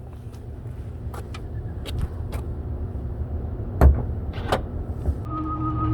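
Several sharp clicks and one louder dull thump over a steady low outdoor rumble. Near the end a steady tone starts and slowly rises in pitch.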